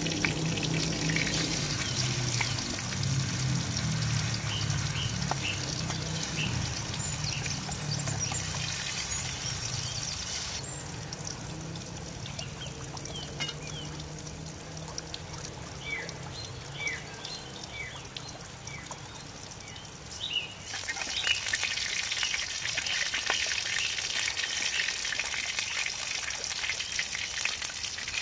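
Food frying in hot oil in a steel wok on a portable gas stove: a steady sizzle with fine crackling. The sizzle fades for about ten seconds in the middle and comes back strongly near the end, with short bird chirps heard over it.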